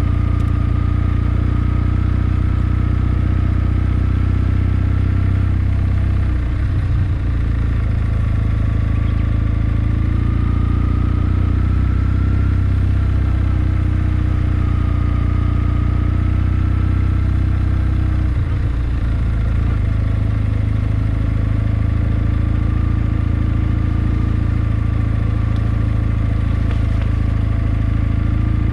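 Kawasaki W650's air-cooled parallel-twin engine running steadily under way, with two brief dips in the note, about a quarter and two thirds of the way through.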